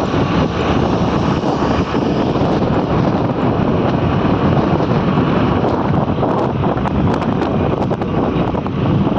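Loud, steady wind rushing over the microphone, mixed with the rumble of vehicle and road noise.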